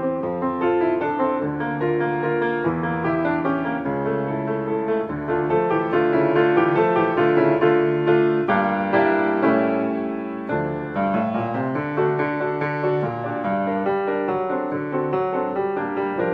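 Background piano music, a steady flow of notes with a low bass line.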